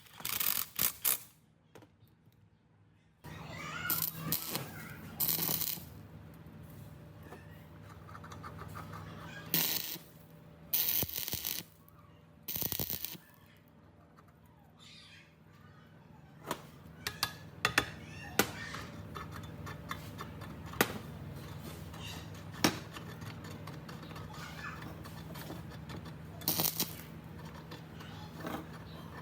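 Small metal parts and hand tools clicking, clinking and knocking during rust removal and repair of a blade grinder. Several short bursts of scraping or brushing are heard, over a steady low hum that starts about three seconds in.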